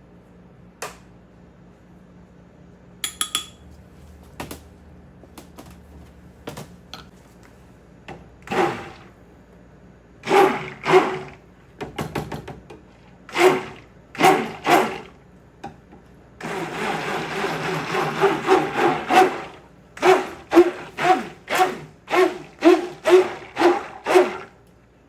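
A few light clicks of lab glassware and utensils, then soap ingredients being mixed or scraped in a container in even strokes, about two a second, with a few seconds of continuous mixing in the middle.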